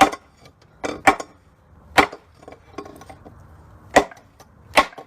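Big hammer striking a 2x4 wooden plank six times at an uneven pace, sharp wooden whacks, to drive the transmission and the rotary engine together where they were not quite close enough to bolt up.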